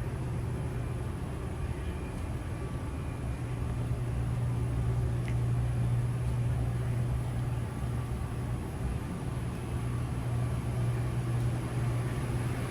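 A steady low hum over a constant background rumble, growing a little louder a few seconds in.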